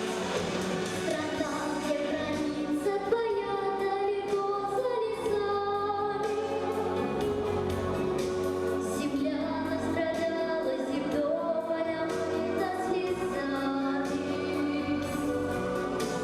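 A group of children singing a song together with instrumental accompaniment, holding long notes that slide between pitches.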